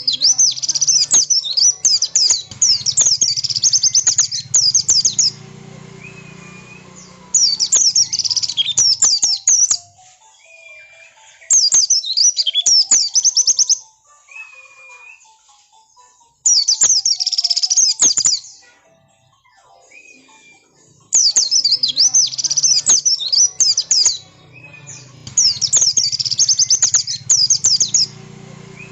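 White-eye (pleci) singing insistently: bursts of rapid, high twittering chirps lasting two to four seconds each, repeating with short pauses. A short whistled note recurs in the gaps between bursts.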